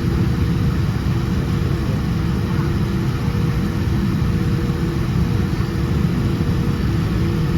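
Steady low rumble of a Boeing 787-10 heard from inside the cabin, engines running at low power while the airliner taxis, with a faint steady hum over it. The level holds even throughout, with no build-up of thrust.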